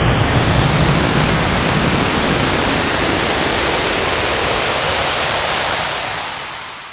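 Synthesized sci-fi noise riser: a loud hiss that grows steadily brighter and higher over about six seconds, then fades out near the end.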